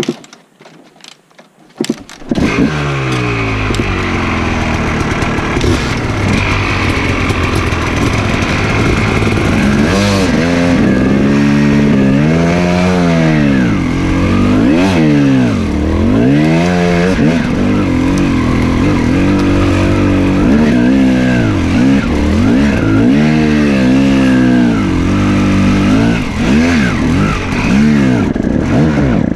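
Off-road enduro motorcycle engine starting about two seconds in, then running loud as the bike is ridden, revving up and down again and again.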